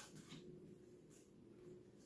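Near silence: room tone with a few faint ticks and rustles of handling.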